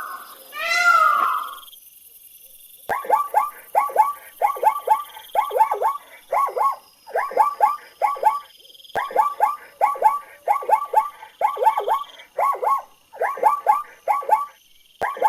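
A cat's drawn-out meow with a falling pitch, ending about a second and a half in. Then, after a short pause, a small dog yapping in quick runs of short, high yips, several a second, to the end.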